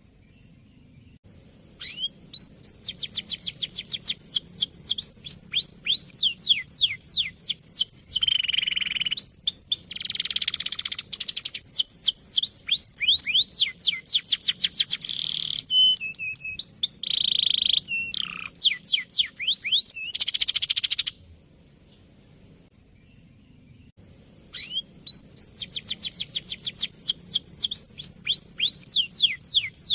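Male canary singing a long, fast rolling song of rapidly repeated high down-slurred notes, with a gap of a few seconds near the end before it starts again.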